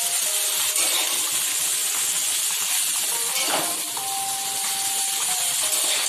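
Steady sizzling hiss of boiled chow mein noodles, vegetables and scrambled egg frying in oil in a kadai as they are tossed and mixed with a spatula.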